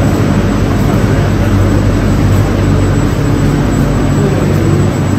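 Steady, loud drone with a low hum from a stationary Renfe Cercanías electric commuter train's onboard equipment running at an underground platform.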